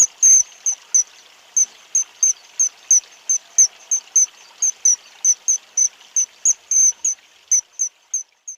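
A small bird chirping over and over: short, sharp, high-pitched chirps at about three a second, somewhat uneven, stopping just before the end.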